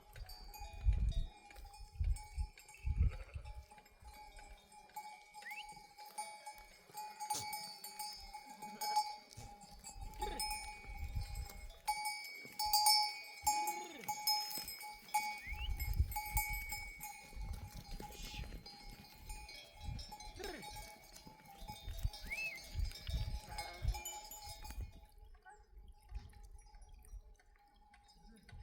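Bells on a grazing flock of sheep clanking and ringing continuously with many overlapping clinks, mixed with a few sheep bleats and low thuds; the bells fall away about three seconds before the end.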